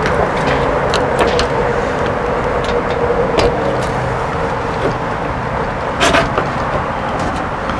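A steady mechanical hum, like a motor or engine running, with light scattered clicks and a sharper click about six seconds in.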